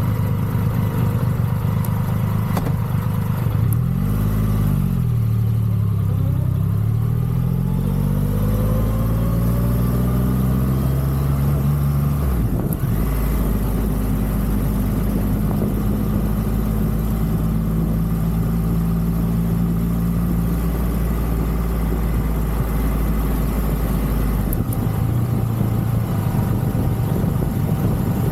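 Triumph Rocket 3's three-cylinder engine under way. Its note dips and picks up about four seconds in, then climbs steadily in pitch as the bike accelerates. It changes gear about twelve seconds in and then holds a steady cruise, with wind rushing past throughout.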